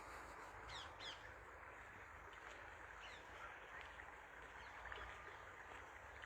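Two harsh bird calls about a second in, each sweeping quickly down in pitch, with fainter calls later, over the faint steady rush of a brook.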